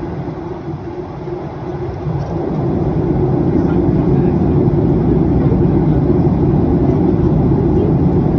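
Cabin noise inside a Boeing 737-800: a steady, loud low rumble of the jet engines and airflow, which grows louder about two seconds in.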